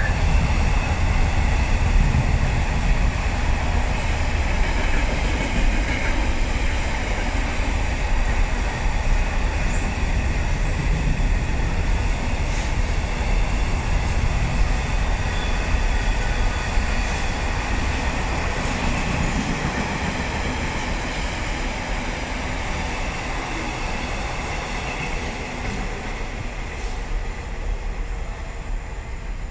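Loaded container flat wagons of a freight train rolling through on the rails: steady wheel-and-rail running noise that slowly grows quieter as the end of the train passes.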